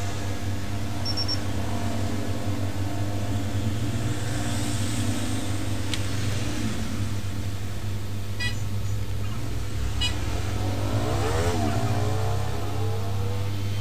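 A steady low hum runs throughout. About eleven seconds in, a passing vehicle's engine rises and then falls in pitch.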